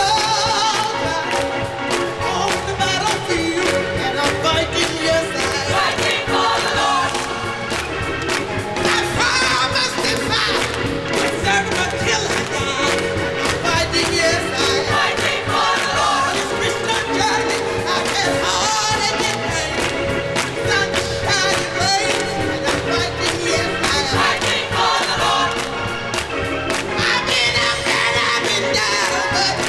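Gospel choir singing with live instrumental accompaniment and a steady beat.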